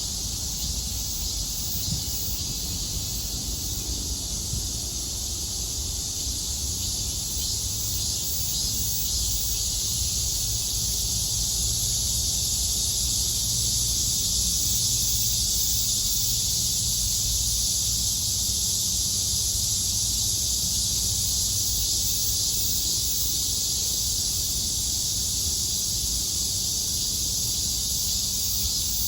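Cicadas buzzing in a dense, steady chorus that grows a little louder toward the middle, over a low rumble.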